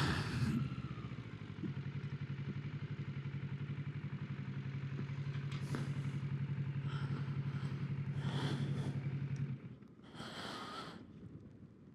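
Kawasaki Ninja 650 parallel-twin engine running at a steady, unchanging pitch with an even pulse, then cut off suddenly about nine and a half seconds in. A few short rustles and knocks come after the cut.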